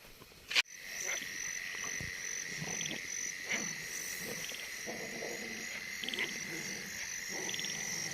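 A sharp click about half a second in, then a night chorus of frogs croaking with a steady high insect drone and repeated short trills.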